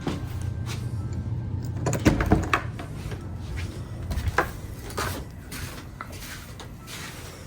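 Several irregular knocks and clicks, loudest in a cluster about two seconds in, with a low hum under the first few seconds that then fades.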